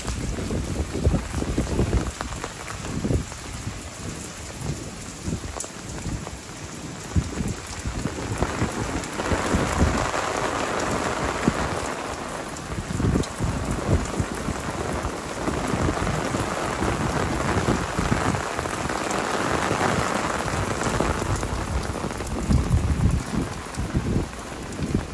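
Heavy tropical rain pouring steadily onto paving and a glass railing, swelling louder twice. Intermittent low rumbles run under it.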